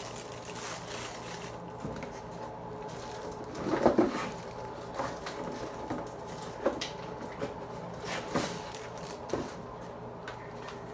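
Scattered knocks and clacks of water-heater parts and packaging being handled during unboxing, the loudest about four seconds in, over a steady background hum.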